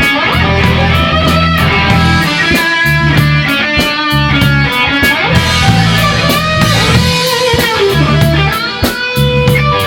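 Rock band playing live: electric guitar lines with bent notes over a drum kit keeping a steady beat on the cymbals and a pulsing bass.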